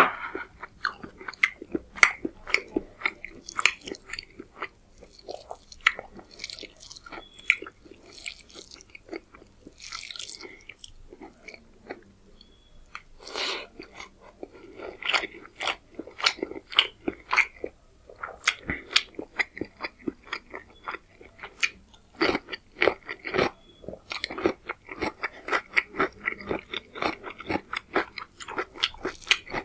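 Close-miked chewing of rice and chicken curry eaten by hand: wet mouth smacks and a dense run of short, irregular clicks. The sound eases off briefly about twelve seconds in.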